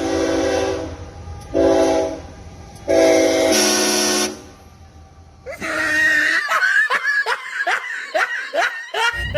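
Vehicle-mounted train horn blown in three blasts, short, short, then long, a multi-tone air-horn chord over a running engine. It is followed by a run of quick sounds falling in pitch, about three a second.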